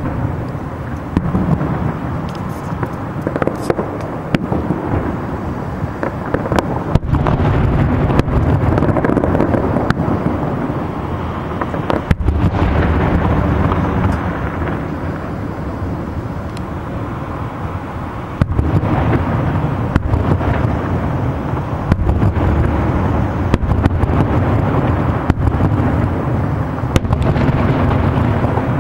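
Aerial fireworks display: shells bursting in quick succession, sharp bangs and crackle over a continuous low rumble of overlapping booms.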